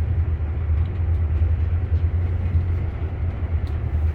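Steady low rumble of a moving intercity train heard from inside the carriage, with a few faint ticks.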